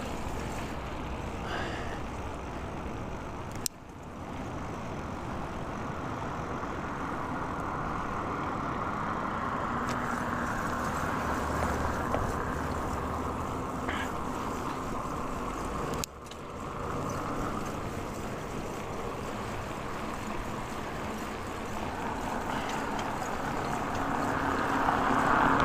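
Steady wind rush and road noise from riding a bicycle, with motor vehicles passing. Twice there is a sharp click with a sudden brief drop in level, about four seconds in and again past the middle.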